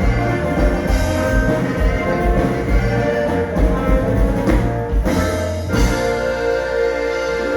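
Band music with drums, sustained pitched notes and a steady low beat.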